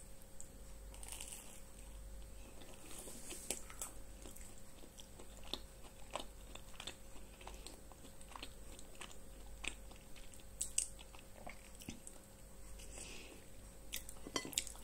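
A person chewing a bite of toast with cream cheese close to the microphone: faint, irregular small clicks and crunches of the mouth at work, a few of them louder.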